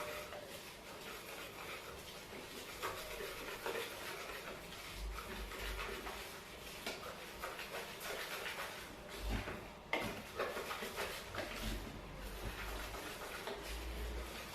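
Dry flour and sugar being stirred in a mixing bowl: continuous soft scraping and rubbing, with a few light knocks against the bowl.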